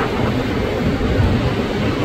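JR 205 series electric commuter train approaching, a steady low rumble from its wheels on the rails.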